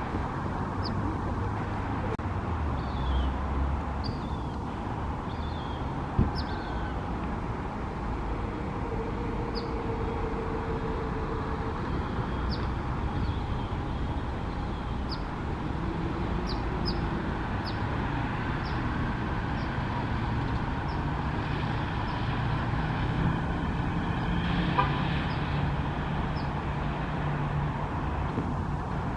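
Steady hum of road traffic, with short high chirps from a small bird repeating every second or two. A held tone sounds for about three seconds around ten seconds in.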